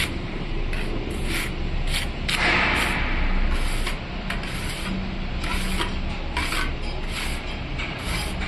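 Repeated short rubbing or scraping strokes, irregular, about one or two a second, over a steady low hum.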